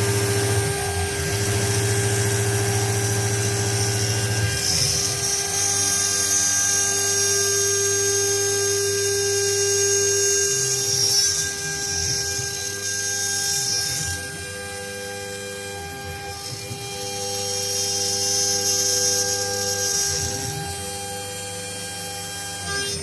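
High-pitched whine of a CNC machine's spindle and motors running. The whine shifts in pitch and strength every few seconds as the machine moves through its work.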